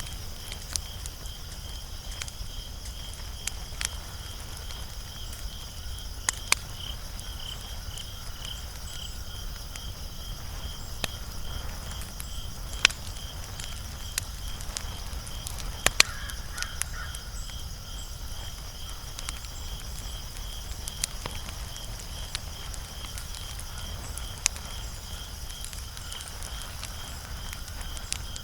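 Wood fire crackling with scattered sharp pops, the loudest about 13 and 16 seconds in. Behind it an insect, likely a cricket, chirps steadily at about two pulses a second.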